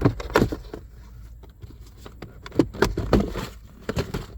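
Hard plastic clicks and knocks from a car's glove box being unlatched and worked out of the dashboard, in two clusters: one at the start and one a little past halfway.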